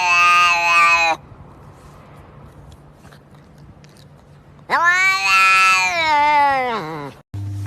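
Domestic cat making long, drawn-out meows. One call ends about a second in, and a second long call starts near five seconds, swelling and then falling in pitch as it ends.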